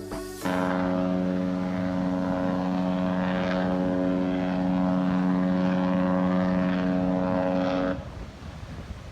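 Cruise ship's horn sounding one long, steady blast of about seven seconds that starts abruptly and cuts off sharply near the end.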